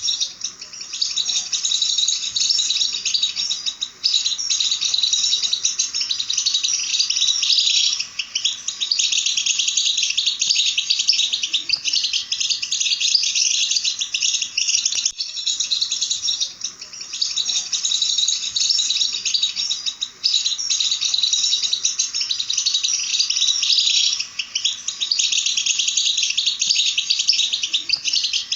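Songbirds singing continuously: a dense, fast, buzzy high-pitched twittering with only brief dips, in the manner of goldfinch song.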